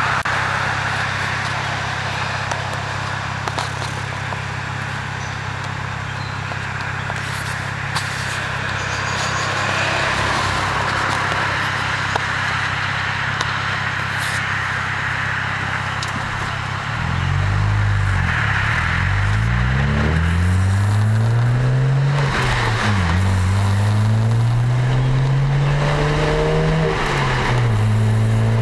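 BMW 335i's turbocharged straight-six through an Eisenmann Race exhaust, droning steadily at cruise with wind and road noise. About two-thirds of the way in it accelerates, the exhaust note rising through the revs and dropping at two upshifts.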